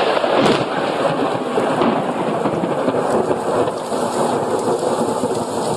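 Thunder rumbling over the steady hiss of heavy rain, cutting off suddenly near the end.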